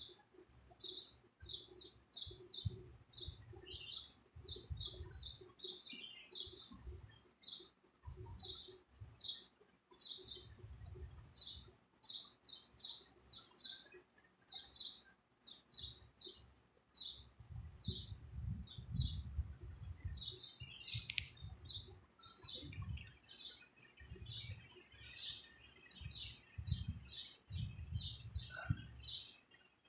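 Small birds chirping: short, high chirps repeating about twice a second, with intermittent low rumbles underneath and a single sharp click about two-thirds of the way through.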